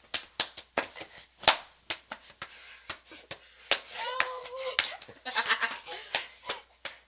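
Rapid, irregular slaps and smacks of hands hitting bodies and bedding during a scuffle, with a short drawn-out whine from a girl about four seconds in.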